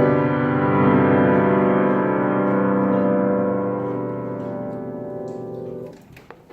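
Piano's closing chord ringing out and slowly fading, then released about six seconds in, followed by a few faint knocks.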